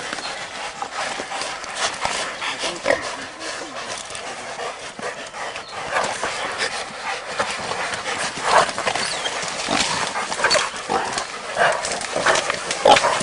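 Hunting dogs and a caught wild pig: barking and squealing, with brush crashing and rustling.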